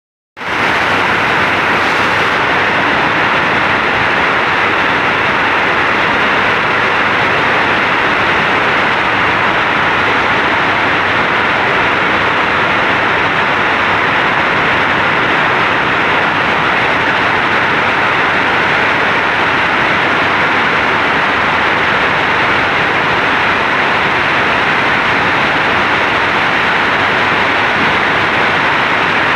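Heavy rain pouring down steadily, a dense even hiss with no breaks or changes.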